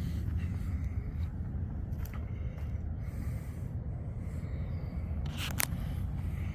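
Wind buffeting the microphone as a fluctuating low rumble, with one sharp click about five and a half seconds in.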